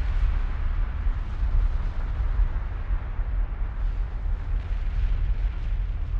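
Volcanic eruption rumbling: a steady, deep rumble with a rushing noise over it.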